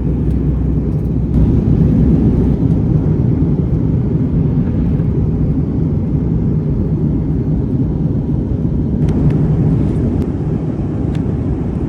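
Steady low rumble of an Airbus A321neo cabin at cruise: engine and airflow noise, with a few faint clicks near the end.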